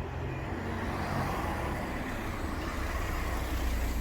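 Road traffic: a motor vehicle passing, its engine rumble and tyre noise swelling a little after a second in.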